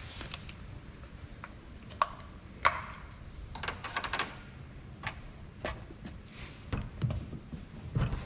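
Scattered light taps and clicks of objects being handled, with two sharper knocks about two seconds and two and a half seconds in.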